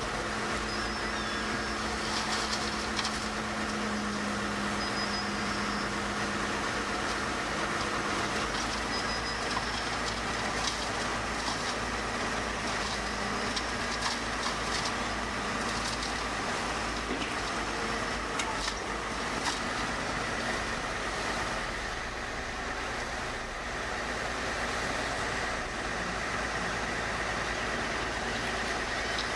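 Diesel engine of heavy earthmoving machinery running steadily, with scattered knocks over the first two-thirds.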